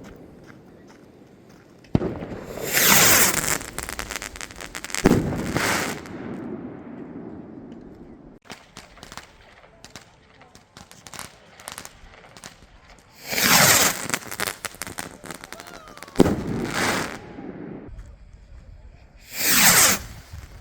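Fireworks going off: sharp bangs about 2, 5 and 16 seconds in, and three loud rushing hisses that fall in pitch, around 3, 13 and 19 seconds in.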